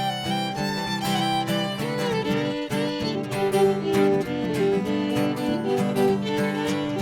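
Instrumental break of a bluegrass-style song: a fiddle plays a melody with sliding, held notes over a strummed acoustic guitar.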